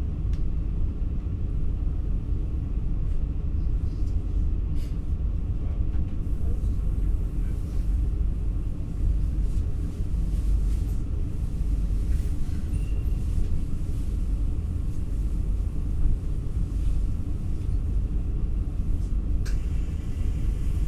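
Steady low rumble of an NS ICNG (Alstom Coradia Stream) intercity train in motion, heard from inside the carriage, with a few faint clicks.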